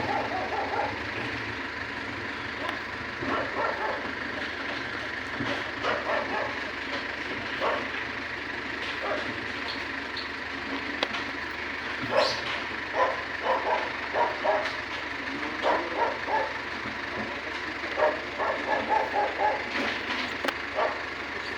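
A dog barking in short runs of several barks, over the steady running of a truck engine.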